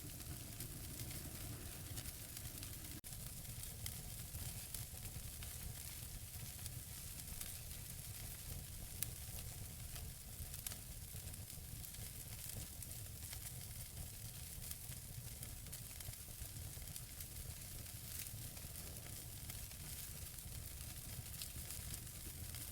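Wood fire burning in a fireplace: a steady hiss with scattered small crackles and pops from the burning logs over a low rumble, with one louder pop about nine seconds in.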